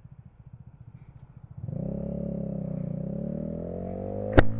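Honda Grom's single-cylinder engine pulsing at low revs, then pulling away under throttle with its pitch climbing steadily. A single sharp click comes about four seconds in.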